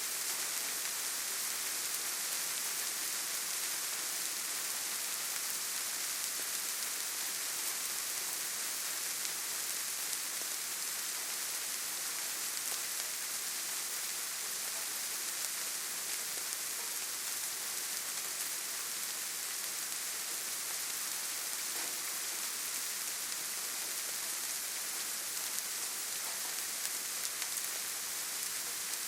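Steady rain falling on leaves and forest ground: an even, unbroken hiss of many small drops.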